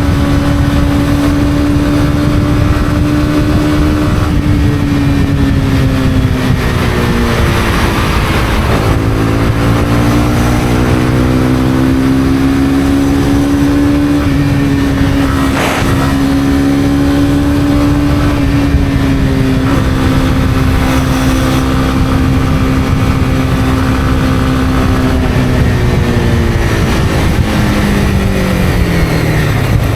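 Honda CB250R single-cylinder engine pulling the bike along at a steady pace over a rush of wind noise. The engine note sags about eight seconds in, climbs back up and holds, then falls away near the end as the bike slows. There is a single sharp click about halfway through.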